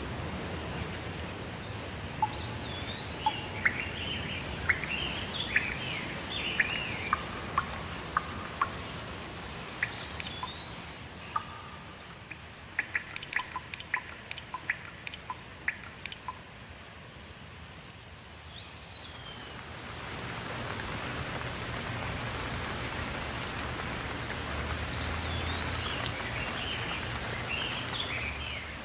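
Birds singing, with short chirps and whistled notes, over a steady rush of water. The water sound eases off about halfway through, during a run of quick ticking notes, then comes back.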